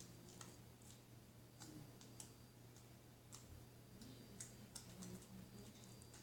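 Faint, scattered soft clicks and pops of homemade fluffy slime being squeezed and poked by hand, over a steady low hum.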